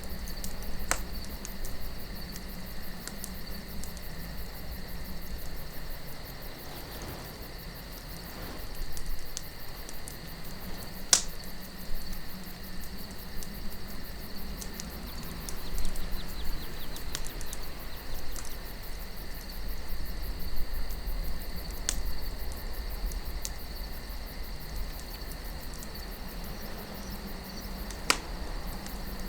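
Campfire crackling with scattered sharp pops of burning wood, over soft wind and a steady high chirring of night insects.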